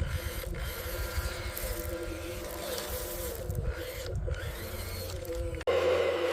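Small electric motors and gearing whining steadily over a low rumble. About three-quarters of the way through, the sound cuts abruptly to a louder, harsher whine.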